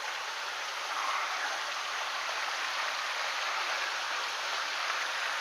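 Steady rushing of a mountain stream's flowing water, slightly louder from about a second in.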